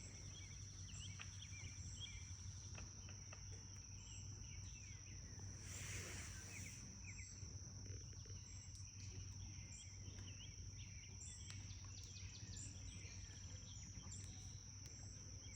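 Faint pondside ambience: a steady, high-pitched insect drone with many short bird chirps scattered through it, and a brief rush of noise about six seconds in.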